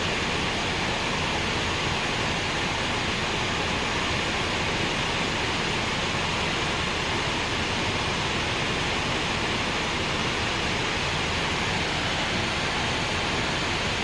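Waterfall pouring steadily: an even rush of falling water.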